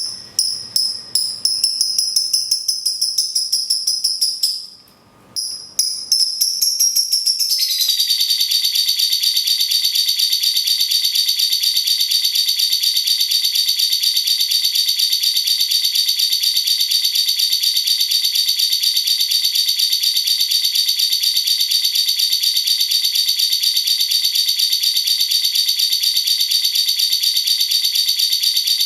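Cage-bird song of a cucak cungkok and a lovebird. It opens with a quick string of sharp high chirps, with a brief break a little past halfway through that part. From about seven seconds in comes one long, unbroken, very rapid high-pitched rattling trill, the kind of long chatter (ngekek panjang) that lovebirds are trained for.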